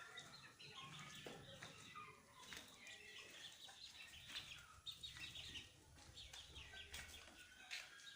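Faint flock of desi chickens: hens clucking softly, with many short, high chick peeps overlapping throughout.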